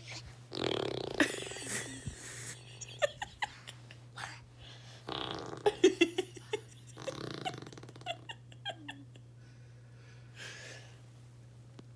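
A baby blowing raspberries against an adult's bare arm, making fart noises in several sputtering bursts, with the first starting about half a second in and others around five and seven seconds in.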